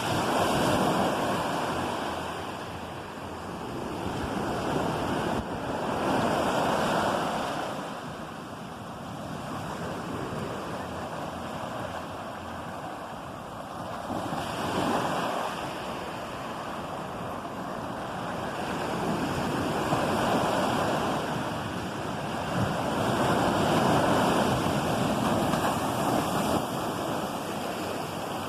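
Ocean surf: waves breaking and washing in, the rushing noise swelling and fading about five times.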